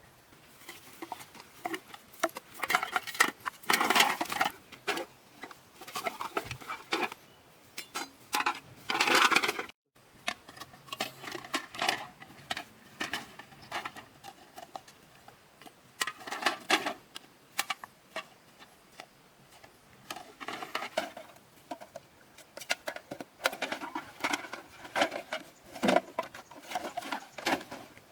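Hard objects being handled and knocked together: a run of short clicks, clinks and clatters in irregular flurries, with a brief dropout near the middle.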